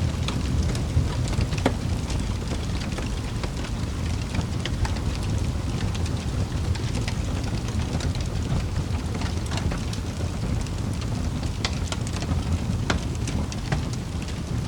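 Wood fire in a fireplace crackling, with many scattered sharp pops and snaps over a steady low rumble of the flames.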